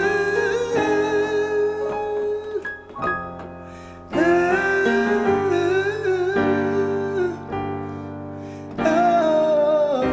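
A song: a singer holds long wordless 'oh' notes in three phrases, one at the start, one about four seconds in and one near the end, over instrumental backing.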